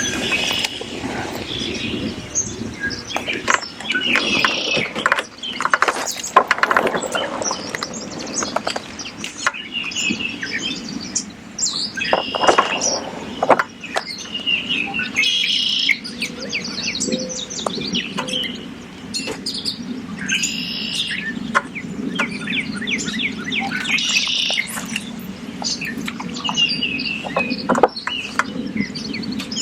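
Several birds chirping and singing in short repeated phrases and trills, over a steady low background hum, with scattered small clicks.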